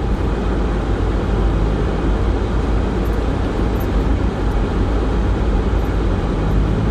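Steady road and engine noise inside a car's cabin while driving on a snow-covered road.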